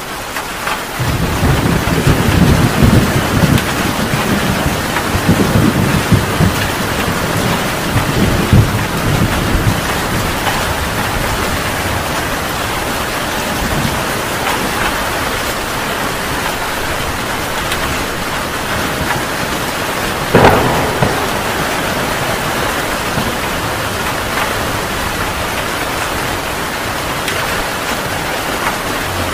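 Heavy rain falling steadily in a thunderstorm. Thunder rumbles repeatedly through the first ten seconds or so, and a sharp thunderclap comes about twenty seconds in.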